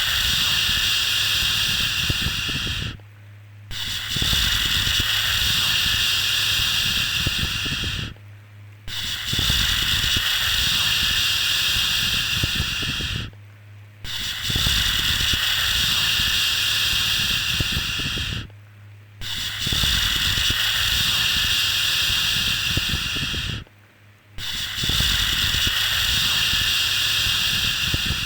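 A long, steady 'shhh' shushing sound, used as white noise to soothe a baby to sleep. Each shush lasts about four and a half seconds and is followed by a short break of under a second, so it repeats about six times here in an even rhythm.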